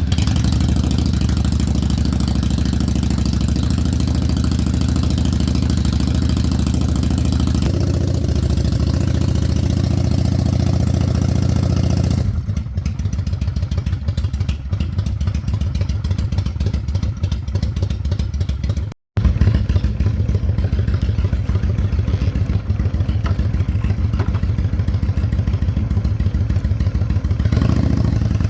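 Honda Shadow 600 V-twin motorcycle engine idling steadily just after starting up. About twelve seconds in it turns lower and more pulsing, and a little past halfway the sound cuts out for a split second.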